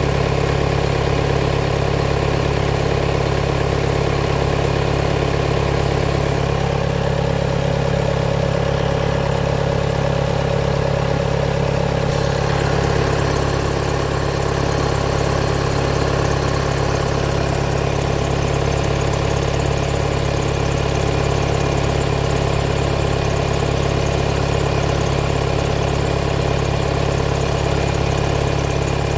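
2018 Volkswagen Tiguan's 2.0 TDI four-cylinder diesel idling steadily on a cold engine. A mid-pitched hum comes in about six seconds in and drops away about twelve seconds in, after which a higher hiss is louder.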